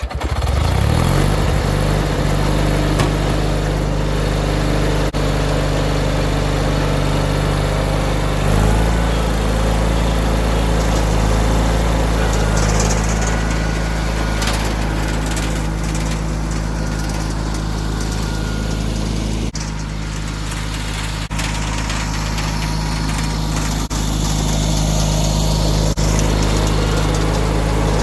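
John Deere 317 garden tractor engine starting up and settling into a steady run. Its low note strengthens about eight seconds in, as it takes up load.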